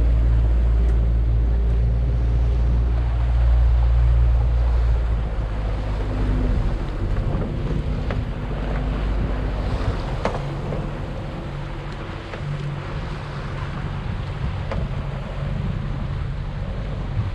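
Motorboat engine idling, with water slapping against the hull and wind on the microphone; the low engine hum is strongest in the first few seconds. A few brief sharp sounds stand out about halfway through.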